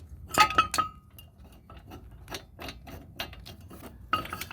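Steel brake hardware and tools clinking and tapping while a caliper bracket bolt is being started on a car's front brake. There is a loud cluster of metal clinks with brief ringing about half a second in, lighter scattered clicks after it, and another cluster of clinks near the end.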